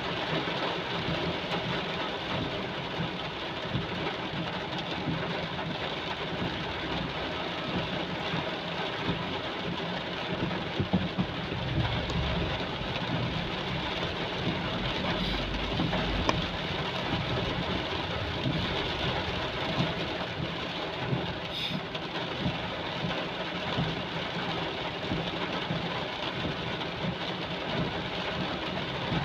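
Heavy rain falling steadily, a continuous hiss with a low rumble underneath.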